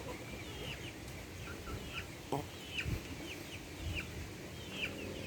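Chickens calling: a series of short, high, downward-sliding peeps, roughly two a second, with a single knock about two and a half seconds in.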